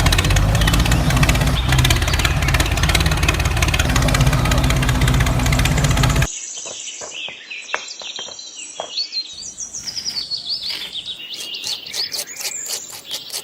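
A loud, dense sound with a steady low drone cuts off suddenly about six seconds in. Birds then chirp and call repeatedly at a much lower level.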